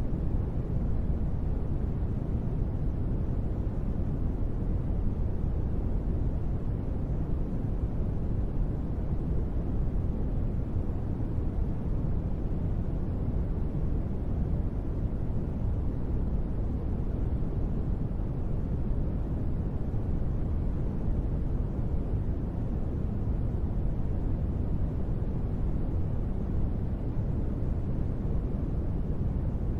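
Steady noise for sleep, of the kind called white noise, with no change or break. It is weighted to the low end, so it sounds deep and soft rather than hissy.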